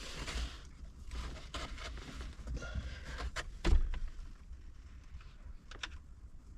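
Handling noise: scattered light clicks and rustles, with one louder knock about three and a half seconds in.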